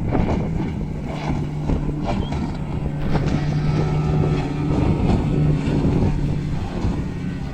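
Racing powerboat's engine running at speed with a steady drone, fading out near the end, with wind noise on the microphone.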